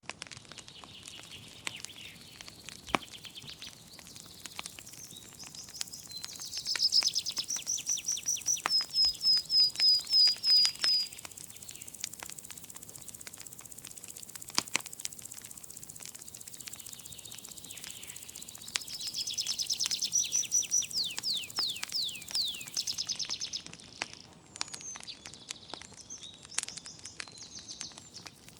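Wood fire crackling with scattered sharp pops, while a songbird sings rapid series of repeated high notes twice, once early in the first half and again in the second half, the later song ending in falling slurred notes.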